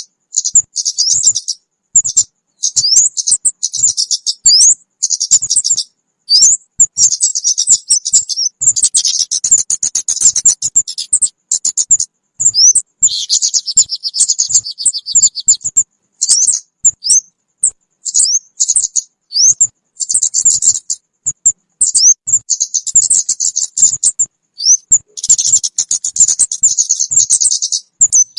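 Recorded calls of the kemade, a small songbird, played as a trapping lure: rapid high-pitched chirps, short rising notes and dense buzzy trills in bursts with brief pauses between them.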